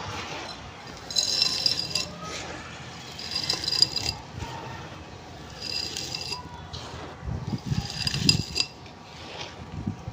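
Gritty charcoal pieces being crushed and crumbled by hand: four bursts of crisp crunching and clinking, about two seconds apart.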